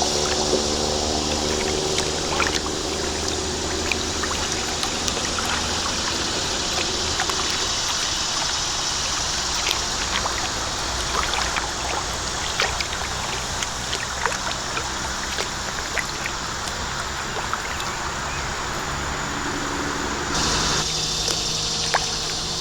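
Kayak paddle strokes, with small splashes and water dripping off the blades, over a steady hum of road traffic from the highway bridge.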